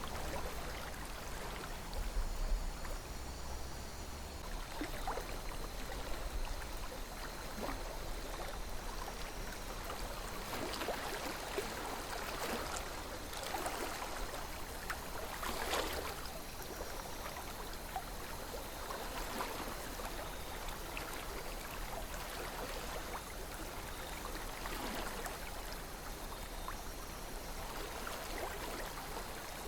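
A calm river flowing steadily, with small gurgles and splashes breaking through now and then, the most prominent about halfway through.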